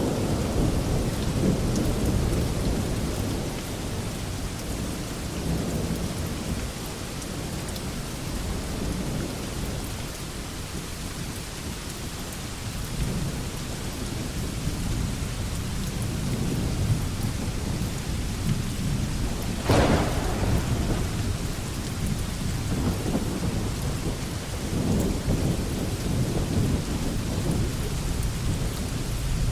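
Heavy rain falling on a veranda, a dense steady hiss with slow low rumbling swells, and one sharp loud crack about twenty seconds in.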